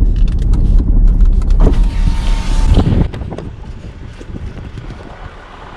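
4WD vehicle driving along a rough dirt track: a loud low rumble with scattered knocks and rattles, which drops off suddenly about three seconds in, leaving a quieter steady rush.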